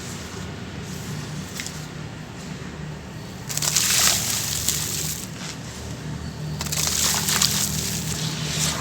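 Grainy sand-cement chunks crumbling in water, a crackling, sloshing hiss. It swells loud about three and a half seconds in and again near seven seconds, over a steady low hum.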